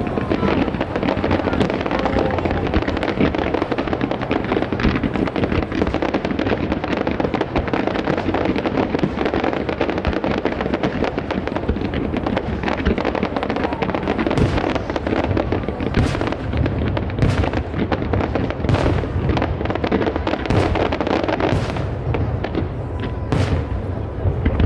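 Aerial fireworks display: a dense, continuous barrage of crackling bursts. In the second half, separate loud bangs come about once a second.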